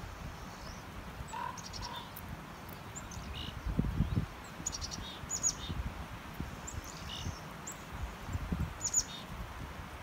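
Small birds chirping in short, high calls, several coming in quick runs, over a steady outdoor background. Wind rumbles on the microphone twice.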